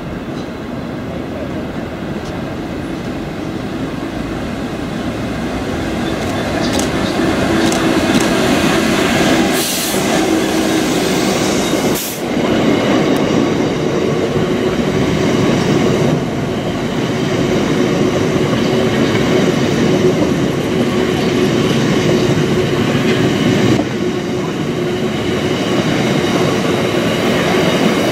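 A Class 66 diesel freight locomotive drawing near and passing with its engine running, followed by a long train of DB Schenker hopper wagons rolling by on the rails. The sound grows louder over the first several seconds as the locomotive approaches, then stays loud and steady as the wagons pass.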